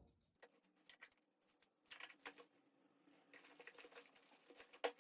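Faint, irregular clicks and taps of buttons being pressed on the prop bomb's keypad, like typing, with one sharper click near the end.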